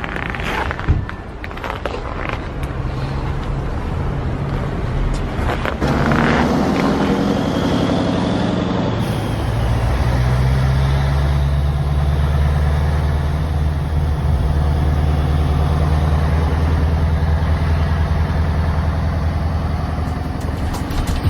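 Scania 142H truck's V8 diesel engine running. About six seconds in it gets louder, its pitch rising and falling, then it settles into a steady, deep, even running note.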